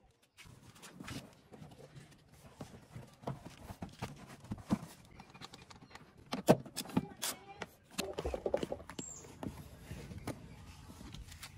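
Irregular clicks and knocks of hand tools and metal parts being handled during shock absorber fitting, with the sharpest knocks about six to seven seconds in.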